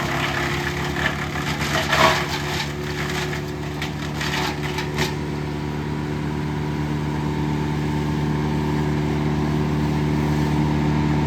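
Morbark wood chipper's engine running steadily under load while wood is fed through, with dense crackling and splintering for about the first five seconds, after which only the engine is heard running.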